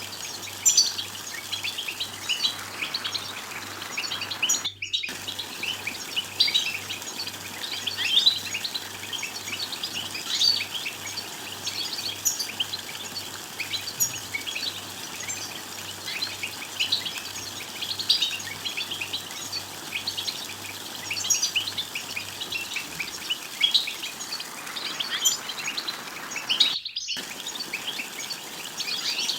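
A group of European goldfinches calling together: a dense, continuous stream of short, high twittering chirps, the 'bitbita' contact twitter. It plays over steady background noise and cuts out completely for a moment twice, about five seconds in and near the end.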